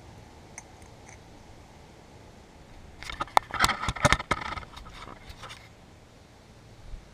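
A flurry of sharp clicks, clinks and scraping about three seconds in, lasting a couple of seconds: small metal parts and tools being handled during carburettor work.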